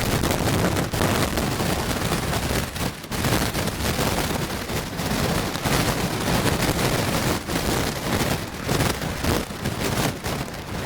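Typhoon wind blasting the microphone in gusts, over heavy storm surf crashing against the concrete wave-breaking blocks. The noise surges and dips, with a few brief lulls.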